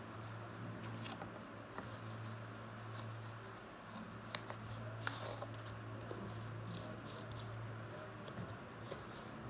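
Folded paper sheet being handled and pressed together to stick its glued halves, giving faint scattered rustles and crinkles. A steady low hum runs underneath.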